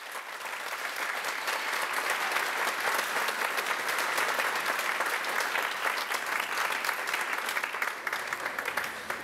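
Audience applause: many hands clapping. It builds up over the first couple of seconds, holds steady, and starts to fade near the end.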